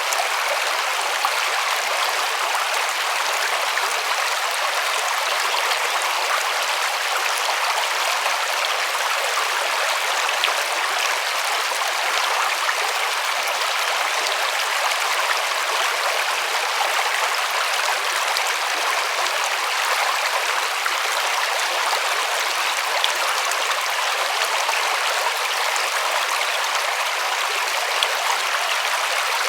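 A river running steadily over rocks: an even rush of water with small splashes in it.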